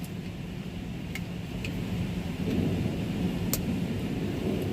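Water spraying against the front of a semi truck, heard from inside the cab as a muffled, steady wash of noise that grows louder about halfway through, with a few faint clicks.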